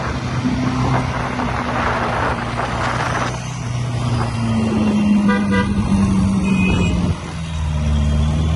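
Car engines running low and steady in street traffic, with a short car horn toot a little past the middle.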